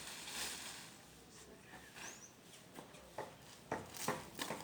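A few sharp clicks or taps about half a second apart near the end, with a faint short chirp about two seconds in.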